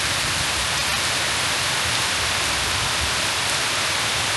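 Heavy rain pouring down in a summer storm, a steady, even hiss.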